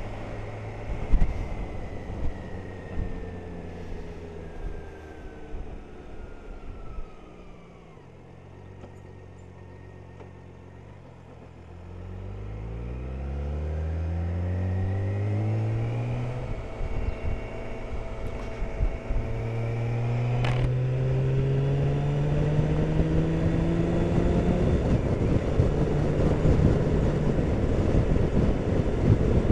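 BMW K1600 inline-six motorcycle engine running, easing off to a quiet low hum, then pulling away with its pitch rising through two gears before settling to a steady cruise as wind noise builds.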